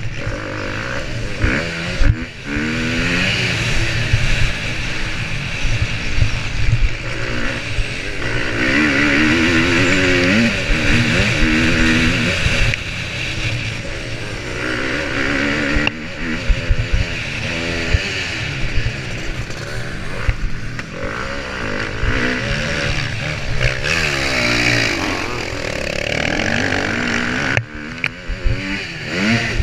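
Motocross bike engine heard onboard, revving up and falling back over and over as it is ridden hard round the track, with rushing noise and short knocks from the bumps.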